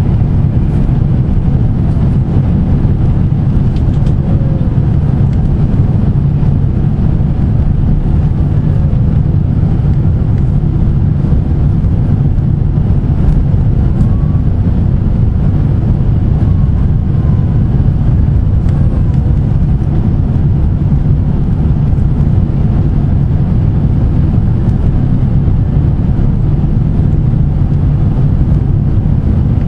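Steady low rumble of a Boeing 767's engines and airflow, heard inside the airliner's passenger cabin.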